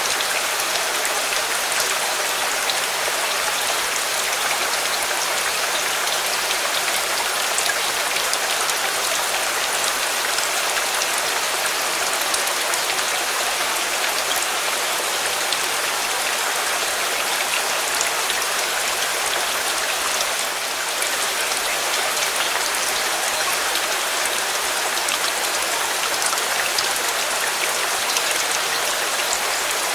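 Steady rain falling: an even hiss with faint scattered drop ticks, dipping slightly for a moment about twenty seconds in.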